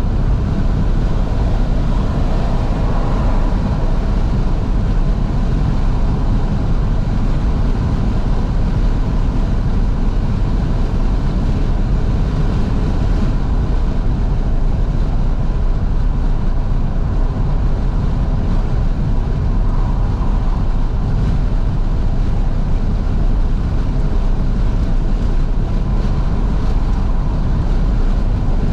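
Steady wind and road noise inside a moving FIAT 500's cabin with all the windows wide open, the engine running underneath.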